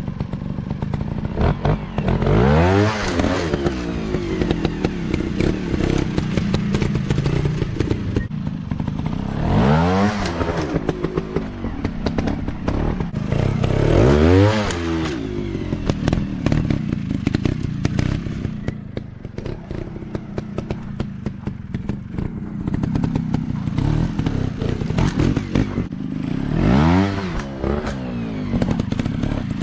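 Motocross dirt bike engines running and revving, the pitch climbing and dropping in several swells, the biggest about 3, 10, 14 and 27 seconds in, over a steady engine drone.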